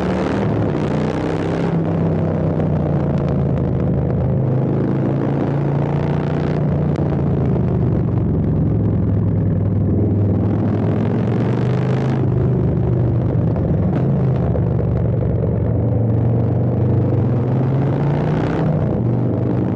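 Custom Harley-Davidson Street Bob V-twin with a Stage 2 kit and an Arlen Ness air intake, running at a steady, nearly even speed, with a few brief stretches of added hiss.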